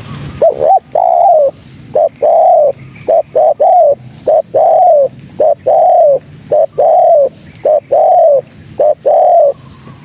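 Spotted dove cooing: a repeated phrase of a short note followed by a longer arched coo, about once a second. It is played as a lure call, which the uploader says is a female calling males.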